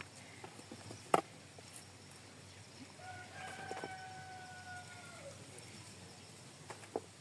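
A rooster crowing once: one long held call that starts about three seconds in and drops in pitch as it ends. A sharp knock about a second in is the loudest moment, with a smaller one near the end.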